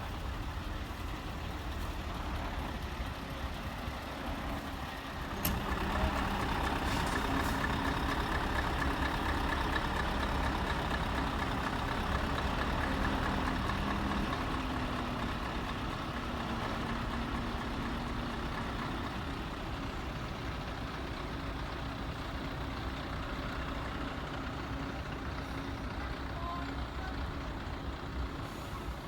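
Heavy truck engines running at low revs, with a steady low rumble. About five seconds in, one gets louder and stays louder for some ten seconds before easing back.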